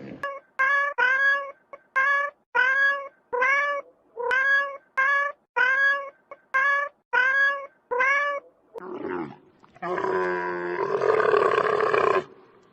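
Domestic cat meowing over and over: more than a dozen short meows in quick succession, each rising then falling in pitch. About ten seconds in comes a louder, rougher drawn-out animal call.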